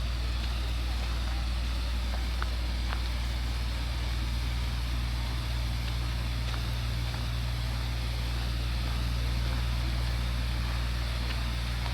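Steady low rumble of city traffic with an even hiss over it and a few faint ticks.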